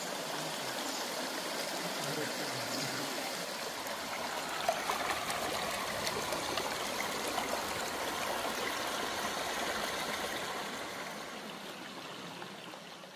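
Stream running steadily, a constant rush of flowing water that fades down near the end.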